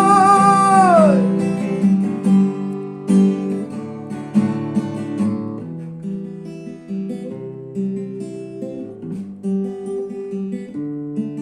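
Acoustic guitar playing an instrumental passage of chords and picked notes between verses, after a held sung note with vibrato trails off about a second in.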